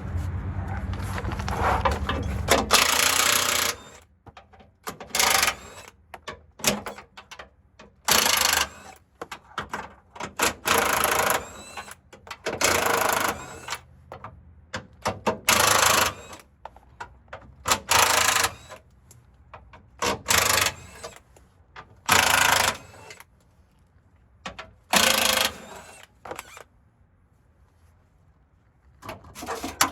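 Handheld power tool worked on a vehicle's exhaust pipe. It starts with a steady rattling run of about three seconds, then is triggered in short bursts of about a second each, every two to three seconds.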